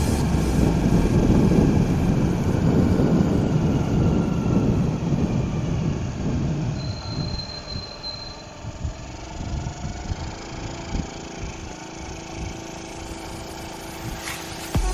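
Small four-stroke motorcycle engine running during a ride, with a heavy low rumble for about the first six seconds that then drops to a quieter, steady engine hum.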